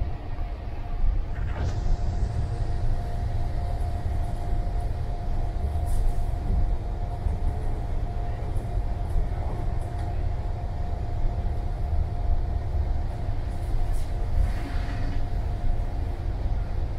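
Passenger train running at speed, heard from inside the carriage: a steady low rumble with a steady whine over it and a few faint clicks.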